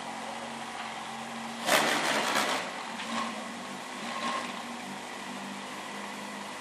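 Toyota Corolla E80 rally hatchback's 4A-GE engine idling through a loud exhaust, with a sharp throttle blip about two seconds in and two smaller blips after.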